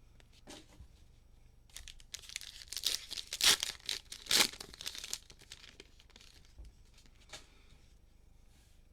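A trading card pack's cellophane wrapper being crinkled and torn open, with the two sharpest rips about three and a half and four and a half seconds in, then a few light handling clicks.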